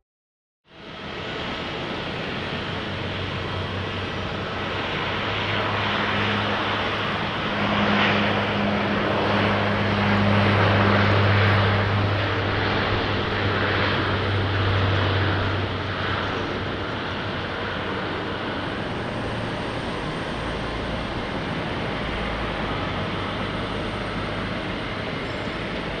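Airliner engines running: the sound starts suddenly, then swells as the aircraft passes about a third of the way in. It eases back to a steady engine noise for the second half.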